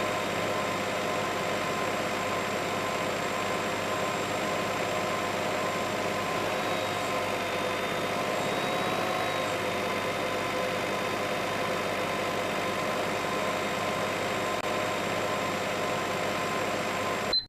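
A steady motor hum, running evenly with a stack of fixed tones and a slight pitch waver about halfway through. It cuts in and stops abruptly.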